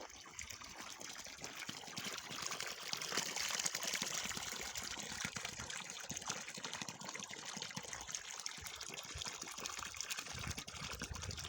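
Running water, a steady trickling rush.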